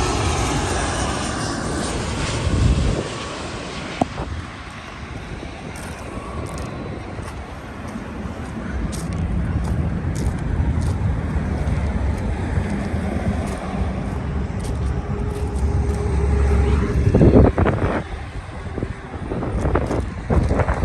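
Jet airliner flying low overhead on its landing approach. The roar fades over the first few seconds, then a low engine rumble builds and swells near the end.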